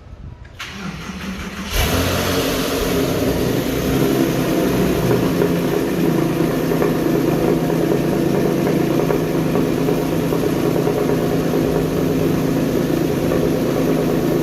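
2005 Porsche 911 (997) 3.6-litre flat-six with its original exhaust being started: a short spell of cranking, then the engine catches suddenly about two seconds in and runs at a steady idle.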